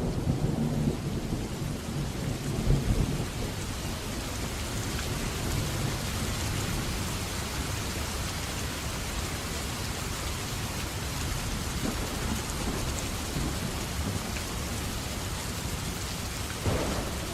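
Steady heavy rain falling, with thunder rumbling during the first few seconds and then fading. A short, sharp burst of thunder comes near the end.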